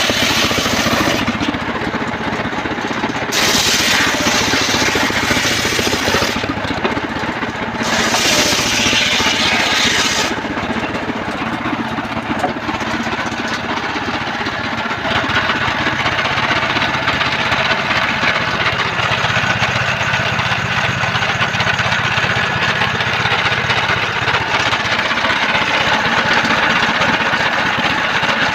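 Home-built mobile circular sawmill running steadily, its engine driving the saw blade through trembesi timber. A brighter hissing sound comes and goes twice in the first ten seconds.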